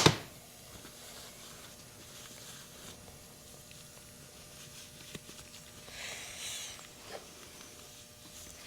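A single sharp knock right at the start, like a metal part set down on a bench, then quiet shop room tone with a faint tick about five seconds in and a brief faint rustle around six seconds.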